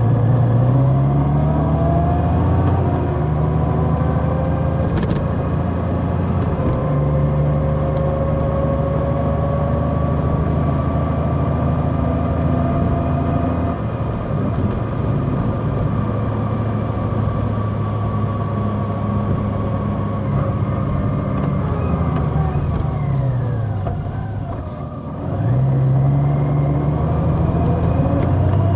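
Large motorcycle engine running under way, its note rising and falling with throttle and gear changes. About 24 seconds in it eases off and drops, then picks up and climbs again.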